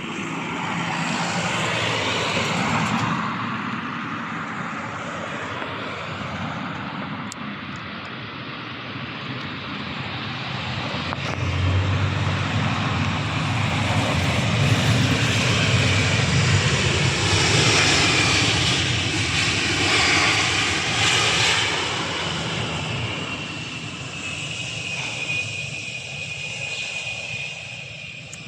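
An airliner's engines passing close by. The noise builds to its loudest about halfway through and then fades, with a thin whine holding on near the end.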